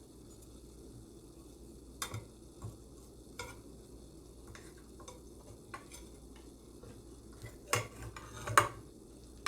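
A utensil clinking and scraping against a dish of food in scattered short strokes, the loudest few near the end.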